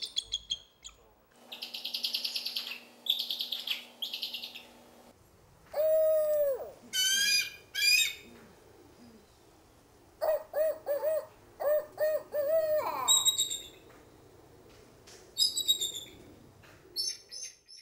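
A string of different bird-of-prey calls one after another: rapid high chattering, a single lower call, shrill high cries, then a run of about six low owl-like hoots ending in a falling note.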